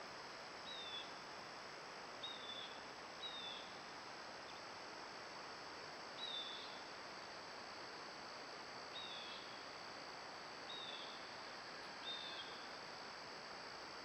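A bird giving short, slightly falling chirps, about seven of them at irregular intervals, over a steady high-pitched background hiss.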